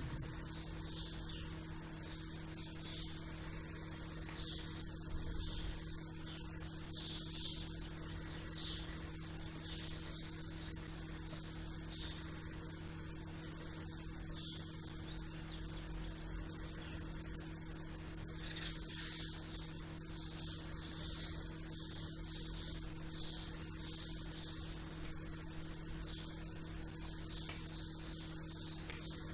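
Small birds chirping on and off in short high calls over a steady electrical hum. A single sharp click near the end.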